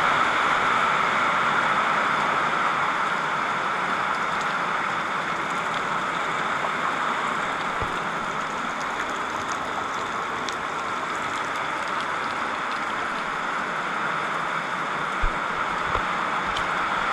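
Steady rain falling on a corrugated metal hut roof, with scattered faint drop ticks. Two short low thumps near the end.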